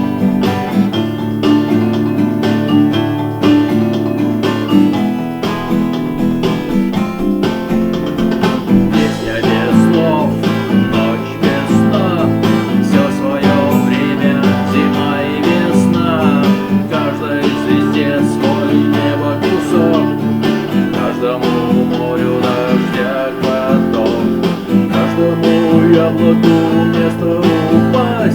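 Music: an instrumental passage of a rock song, led by strummed guitar, with a wavering melody line above it in the middle.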